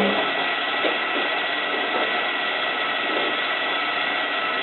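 Hotpoint 9534A washing machine filling, water running in with a steady hiss and a thin steady tone. A low motor hum stops just as the hiss begins.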